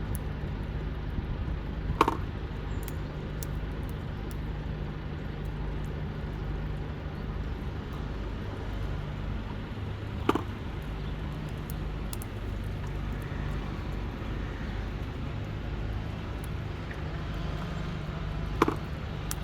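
Steady low motor drone, like distant traffic, with three short sharp knocks about eight seconds apart.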